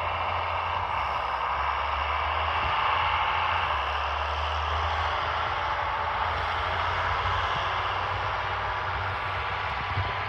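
John Deere 4955 tractor's six-cylinder diesel engine running steadily: a low even drone under a steady hiss.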